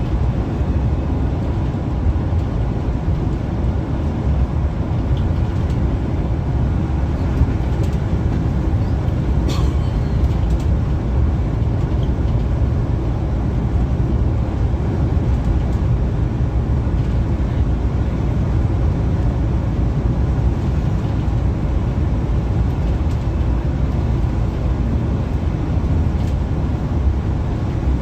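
Scania K360EB4 coach under way: the engine and road noise make a steady low rumble that holds evenly throughout.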